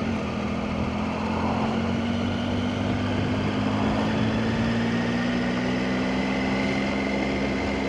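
Motorcycle engine running steadily at cruising speed, its note holding almost level, under a constant rush of wind and road noise.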